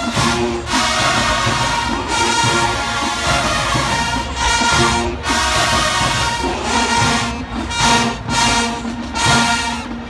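Marching band playing loud brass music. Near the end it breaks into a run of short, separated hits.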